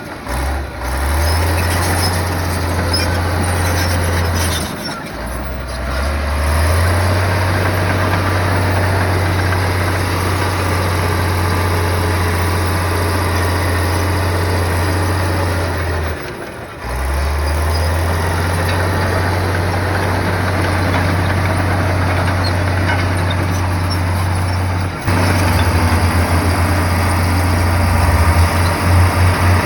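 Heavy bulldozer's diesel engine running steadily under load with a deep hum, dropping out briefly a few times. Near the end the engine note pulses in an even rhythm.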